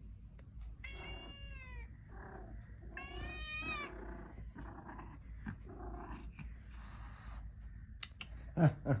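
A cat meowing: two long, wavering, drawn-out calls, about a second and three seconds in, with fainter cries between and after them.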